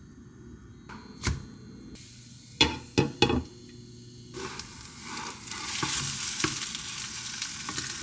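A few sharp knocks of cookware, then food sizzling loudly in a hot frying pan from about four seconds in, with small crackles through the hiss.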